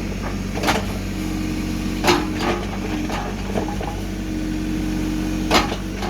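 An engine running steadily at an even pitch, with about four sharp knocks over it, the loudest one near the end.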